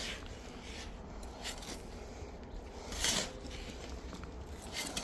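Faint scraping and rustling of a shovel working in soil, with one louder scrape about three seconds in.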